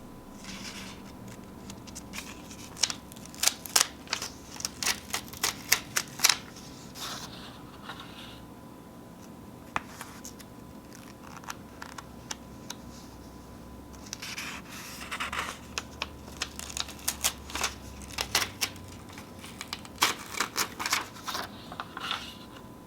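Sheets of paper being torn and crinkled close to the microphone, coming in three bouts of sharp crackling with quieter pauses between.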